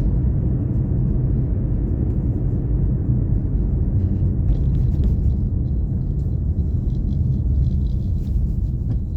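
Car driving at steady speed: a continuous low rumble of engine and tyre noise.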